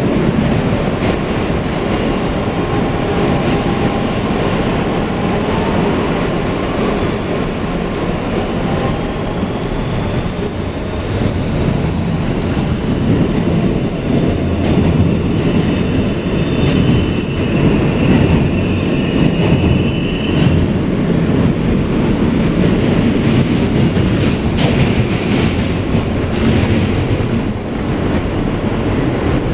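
Interior sound of a Kawasaki R160B subway car with Siemens propulsion running along the track: a steady rumble of wheels on rails with some clickety-clack. Past the middle a high tone sounds for a few seconds.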